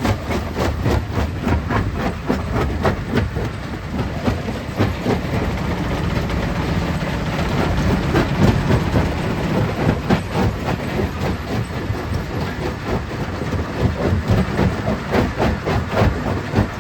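Stone crusher breaking rock: dense, irregular knocking and clattering of stones over a steady low machine rumble.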